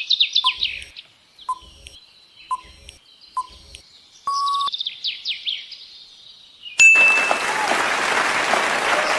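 Quiz answer-timer sound effects: a sharp tick once a second over a bed of recorded birdsong chirps, and a short beep about four seconds in. Near seven seconds, after a click, a loud hissing noise effect sets in and continues.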